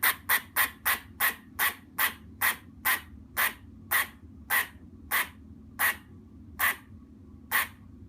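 An animal giving a long series of short, sharp calls, fast at first and slowing to about one every second and a half.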